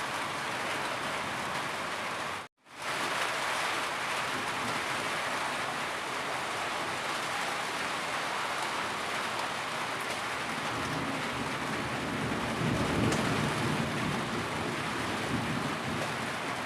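Steady, heavy rain falling in a dense even hiss. About two and a half seconds in it cuts to silence for a moment and fades back in.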